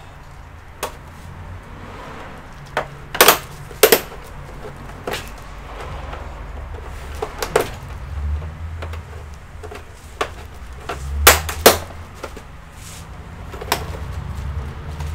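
Scattered sharp clicks and knocks of hard plastic and tools being handled while an all-in-one PC's casing is taken apart. There are about a dozen, loudest about three and four seconds in and again around eleven to twelve seconds.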